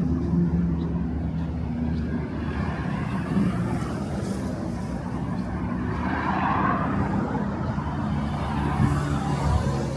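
Street traffic: a motor vehicle's engine running close by, with a vehicle passing about six to seven seconds in.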